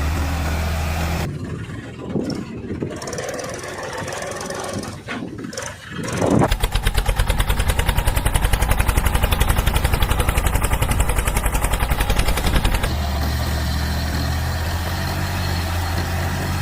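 Tractor diesel engine running with a steady low hum. After a quieter, unsettled patch of a few seconds, a loud, fast, even engine beat comes in for about six seconds, then it returns to the steady hum.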